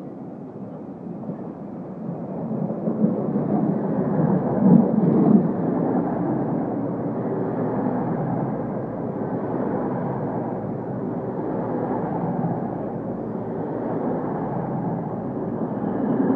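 East Midlands Trains HST, led by a Class 43 diesel power car, running in along the platform. The rumble builds and is loudest about four to five seconds in as the power car goes by, then holds as a steady rumble of the coaches' wheels on the rails.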